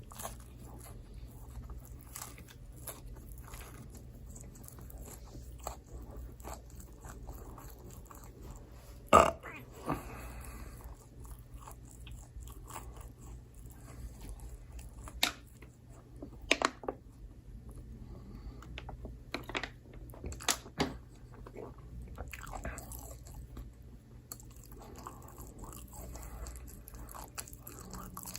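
Close-miked chewing of pizza, wet mouth sounds broken by scattered sharp crunchy bites, the loudest about nine seconds in.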